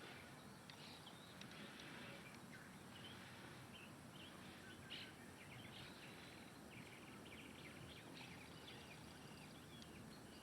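Small birds chirping and twittering faintly, many short calls overlapping, over a steady background hiss.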